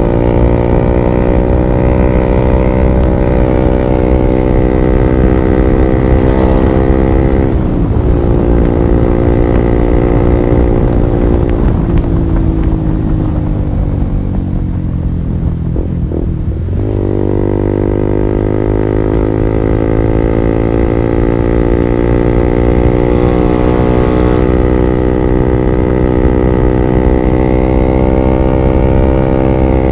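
Honda CB150R's single-cylinder engine through an R9 Alpha Series aftermarket exhaust while riding. The engine note drops sharply twice in the first half as gears change, sinks while the bike slows, then rises steadily under acceleration before dropping again with another shift near the end.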